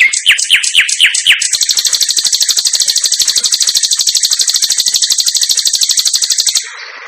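Sikatan londo songbird singing: a quick run of about six high, falling whistled notes, then a fast, even, high trill held for about five seconds that stops shortly before the end.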